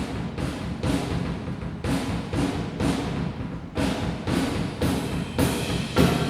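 Live jazz big band music in a drum-led passage: the drum kit plays accented cymbal and drum hits about twice a second over a low bass line.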